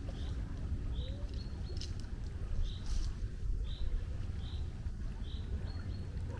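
A small bird repeating a short, high chirp about once or twice a second, over a steady low rumble of wind and sea.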